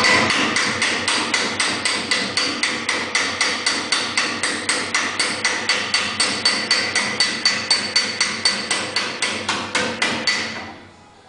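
Hammer blows on the steel rear fender of a 1954 oval-window VW Beetle being repaired, a steady rhythm of about four strikes a second with a metallic ring. The hammering stops suddenly near the end.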